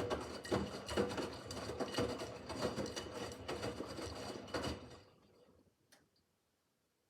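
Miele W5801 front-loading washing machine's drum turning with its wash load, an uneven run of soft knocks over a steady wash noise. The drum stops about five seconds in, and a single faint click follows about a second later.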